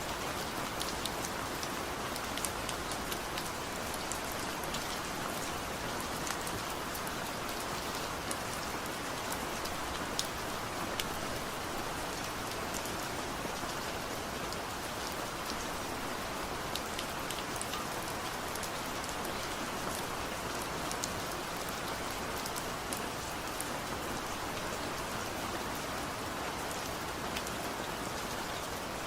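Steady light rain falling, an even hiss of rain with many small crisp drop ticks scattered through it, and no thunder.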